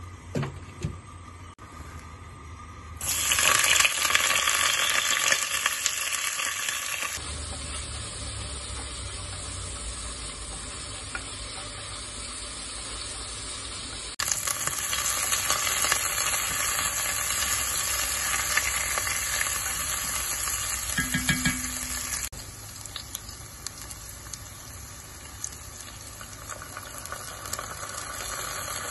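Sliced shallots, garlic and kaffir lime leaves sizzling as they fry in hot oil in an enamelled cast-iron pot, with stirring. The sizzle starts up strongly about three seconds in and then rises and falls in strength.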